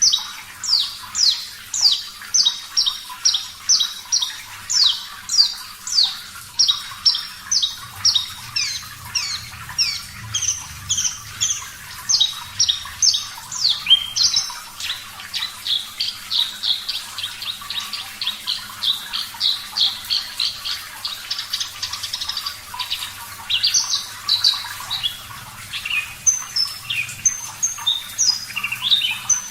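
Javan bush lark (branjangan) singing: a long series of sharp, descending notes about two a second, running into a faster, rapid stream of notes midway, then scattered high notes near the end.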